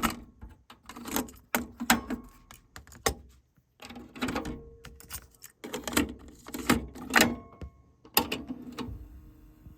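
Yamaha K-40 cassette deck's transport keys and tape mechanism being worked: an irregular run of sharp mechanical clicks and clunks, with a brief steady motor hum about four seconds in and another near the end.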